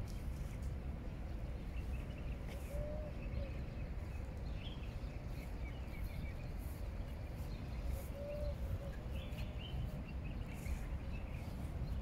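Outdoor park ambience: a steady low rumble with faint bird chirps scattered throughout and two short whistled bird calls, one about three seconds in and one about eight seconds in.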